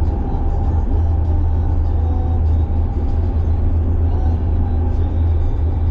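Nissan Silvia with a carbureted engine, heard from inside the cabin while cruising on the expressway: a steady, deep engine drone mixed with road rumble.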